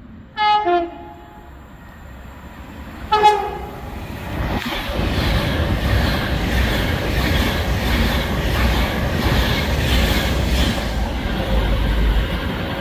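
Avanti West Coast Pendolino electric express sounding its two-tone horn twice, each blast stepping down in pitch. It then runs through the station at speed with a loud, steady rush of wheels and air.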